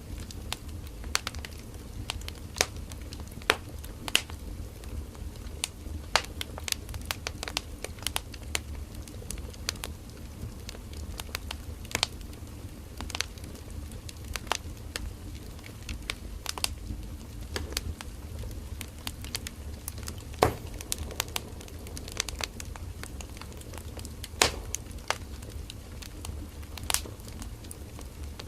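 Firewood burning in a campfire: a steady low rumble of flames with irregular sharp crackles and pops from the wood.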